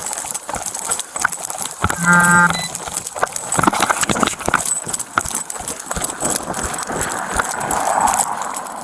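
Rapid footsteps and gear knocking and rubbing against a body-worn camera as an officer moves on foot, with a short steady droning tone about two seconds in.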